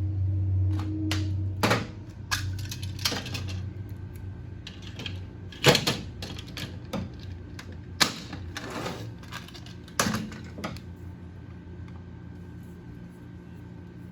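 Metal tools and engine parts knocking and clinking as they are handled on a workbench: a few sharp knocks with lighter clicks between, spaced unevenly.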